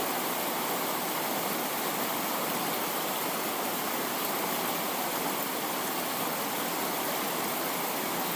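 A steady, even rushing hiss with no rhythm or change in level.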